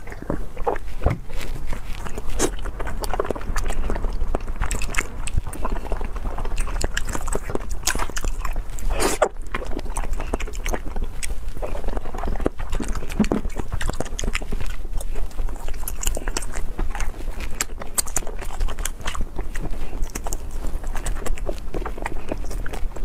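Close-miked biting and chewing of soft jelly sweets: a dense, steady run of short mouth clicks.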